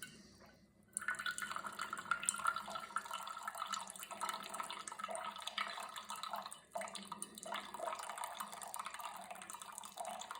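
Cuisinart single-serve coffee maker brewing: hot coffee running and dripping into the cup. The flow picks up about a second in after a brief lull, then trickles steadily.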